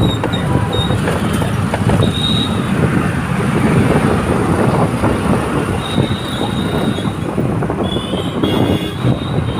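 Steady, loud road noise from a moving bike in traffic: rumble with wind on the microphone. Short high-pitched squealing tones come and go a few times.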